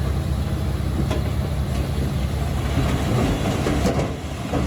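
Diesel engine of a Komatsu D21P crawler bulldozer running steadily, with a few metallic clanks from its tracks.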